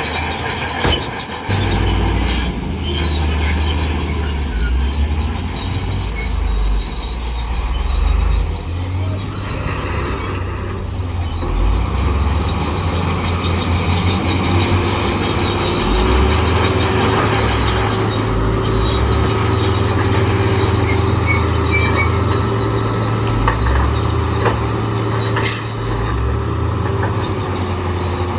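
Heavy earthmoving machinery at work, most likely a crawler bulldozer: a steady low engine drone with a high, thin metallic squeal that comes and goes, and scattered clanks.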